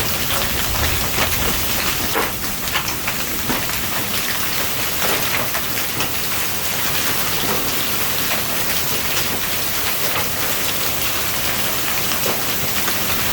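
Hailstorm: hailstones and heavy rain hitting the roof and ground in a dense, steady rattle of many small impacts, with wind.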